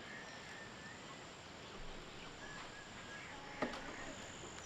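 Rural outdoor ambience: a steady high insect drone with a few faint bird chirps, and one sharp click about three and a half seconds in.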